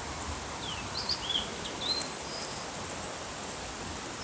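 A small bird chirps several short notes that glide up and down, mostly in the first half, over a steady hiss of open-air background noise.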